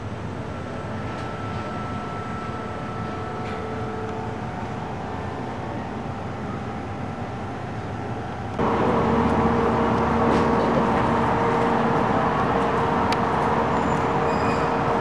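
Steady mechanical hum over a constant background rush. About two-thirds of the way through it jumps abruptly louder, with a stronger, deeper hum.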